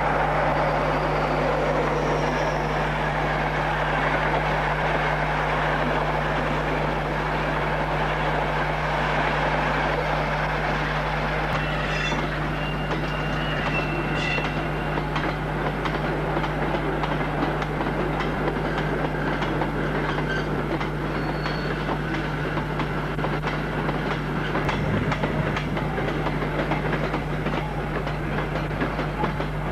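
British Rail train running through the station, a steady rumbling rush with wheels clicking over the rail joints. A brief high squeal rises about twelve seconds in.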